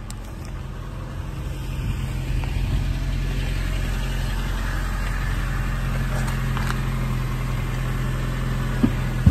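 Car engine idling steadily, a low even hum that grows louder over the first few seconds, with a single sharp click near the end.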